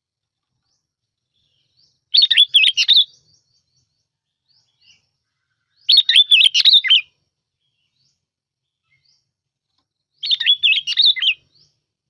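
A bông lau bulbul sings short, bubbling song phrases of quick warbled notes, three times about four seconds apart. This is a recorded lure call used to draw in wild birds of the species.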